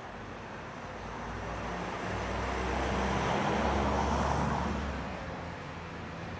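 City street traffic, with one vehicle passing close by: its engine and tyre noise swell to a peak about halfway through and fade away again.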